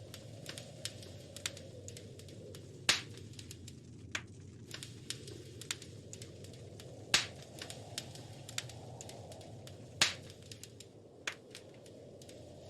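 Wood fire crackling in a fireplace: frequent small clicks and a few sharper, louder pops over a low, steady rush of the flames.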